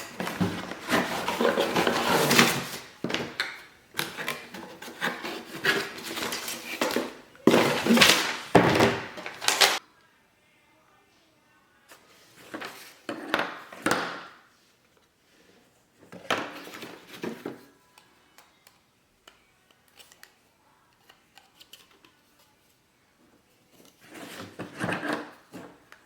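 Toy box being unpacked by hand: rustling packaging and knocks of the pieces, dense for about the first ten seconds, then scattered clacks with quiet gaps.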